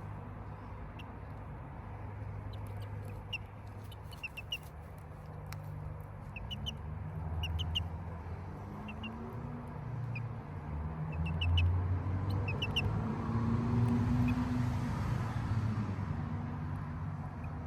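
Chickens giving short, high chirps in quick clusters of two or three, over a steady low rumble that swells a few times.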